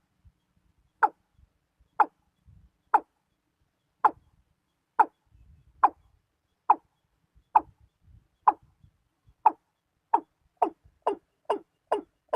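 Male watercock calling: a series of short hollow calls, each dipping slightly in pitch, about one a second at first and speeding up to about two a second near the end.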